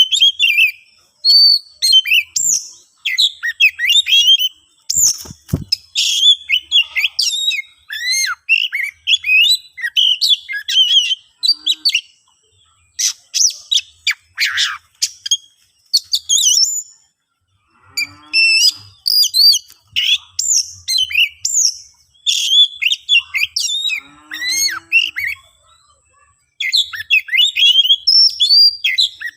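An oriental magpie-robin (kacer) singing hard: fast, varied phrases of whistles, glides and chirps, broken by short pauses. This is the excited song of a bird in fighting mood, used to provoke rival birds. There is a brief low thump about five seconds in.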